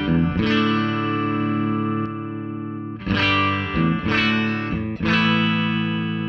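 Electric guitar chords strummed through a Wampler Ego compressor pedal with its blend turned up slightly, so each chord sustains and rings out. One chord rings for over two seconds, then three more strums follow about a second apart.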